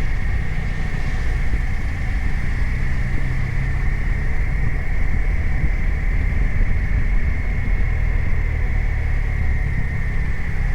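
BMW R 1250 RT's 1254 cc boxer twin running steadily under way, its low engine note shifting slightly in pitch, with a steady high whine alongside.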